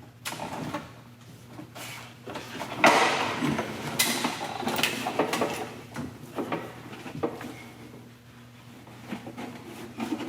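Old heater box being worked loose and pulled out of a 1977 Corvette: irregular scraping, rubbing and knocks, loudest about three and four seconds in, over a steady low hum.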